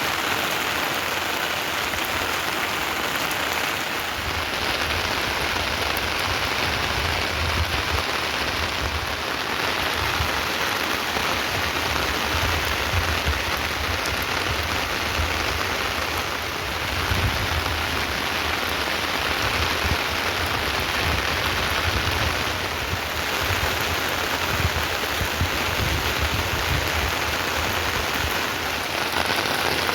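Heavy rain falling steadily and pattering on surfaces, with an intermittent low rumble underneath.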